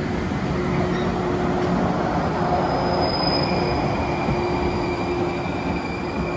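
Maroon-and-cream 413-series electric train of the Echigo Tokimeki Railway passing slowly on the adjacent track, its wheels and running gear rumbling with a steady low hum. About three seconds in, a thin high squeal comes in and holds to the end.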